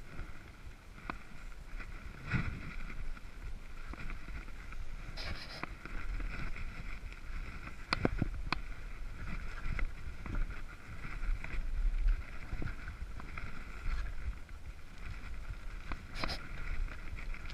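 A child's bicycle with stabilizer wheels rolling over the ground: a steady low rumble with scattered clicks and rattles, a few sharper knocks, and a faint steady whine.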